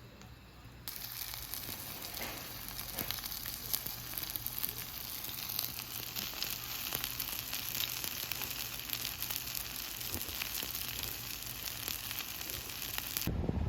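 A dense, steady crackling hiss full of fine clicks, starting suddenly about a second in and cutting off suddenly just before the end.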